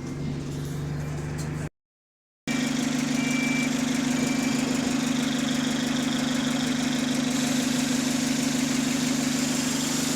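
Diesel bus engine running steadily, cut by about a second of dead silence early on. After the break the engine runs louder at a steady higher note, as under throttle, with the repetitive ticking that comes whenever the engine is throttling, a cause the owner cannot explain.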